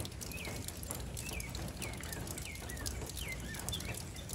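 A bird calling in a string of short chirps, about two a second, over a steady low outdoor hum, with faint scattered ticks.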